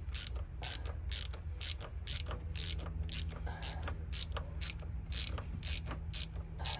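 Ratchet wrench clicking steadily, about three clicks a second, as a bolt on the 6.0 Powerstroke diesel's oil pump front cover is worked out.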